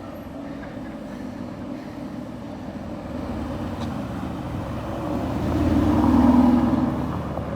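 A car engine passing by, growing steadily louder to a peak about six seconds in and then easing off.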